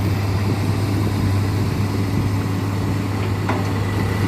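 Dump truck engine running steadily, a low, even hum with no revving.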